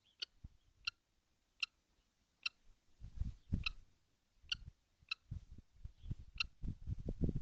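Kestrel handling prey, heard as sharp irregular clicks about every half second, with scuffling thumps joining from about three seconds in and growing busier toward the end.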